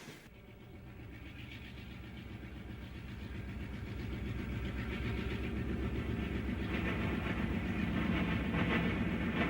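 Diesel locomotive running, its engine a steady low pulsing rumble that grows louder as it draws near.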